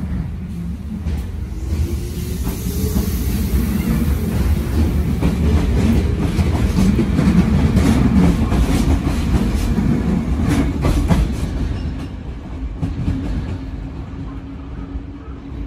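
Tsurumi Line electric commuter train pulling out of the station and passing close by, its wheels clicking over the rail joints. The noise builds to a peak about eight seconds in, then fades as the last car passes and the train draws away.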